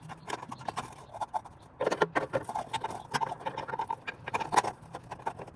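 Ratchet wrench clicking in quick, irregular runs as the camber arm bolts are tightened down.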